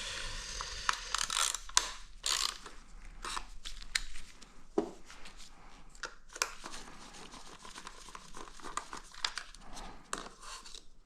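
Irregular light metallic clicks and short scrapes of hand tools on a motorcycle engine's velocity-stack Allen bolts, as the bolts are undone with a ball-ended Allen key and the parts are handled.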